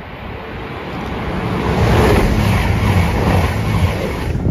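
Class 222 Meridian diesel multiple unit passing through the platform at speed: a rising rush of wheels and air over the low drone of its underfloor diesel engines. It is loudest through the middle and drops away sharply near the end as the train clears.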